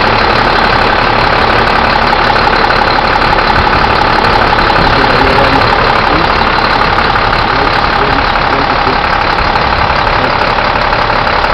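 2005 International 4300 box truck's diesel engine idling steadily.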